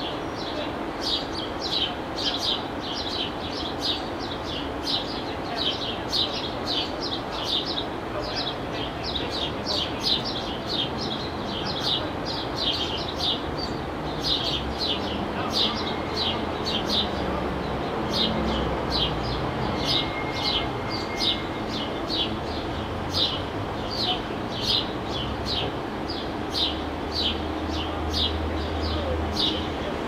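A bird repeating one short, high chirp steadily, about two times a second.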